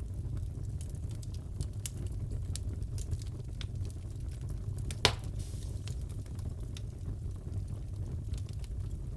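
Wood fire crackling in a fireplace over a low steady rumble, with scattered small snaps and one sharp loud pop about five seconds in.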